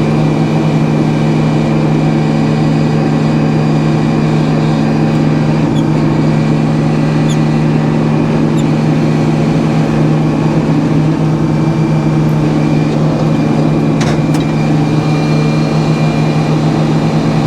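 Engine running steadily at a constant speed, with one sharp knock about 14 seconds in.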